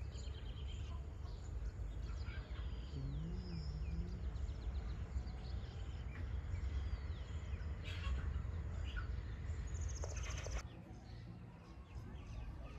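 Birds chirping in short calls over a steady low rumble, which drops away about two-thirds of the way through.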